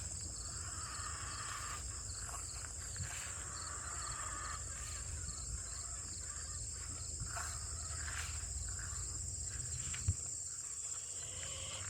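Sandhill cranes calling to each other, mostly in the first five seconds, over a steady high buzz of insects and a low rumble. A single sharp knock about ten seconds in.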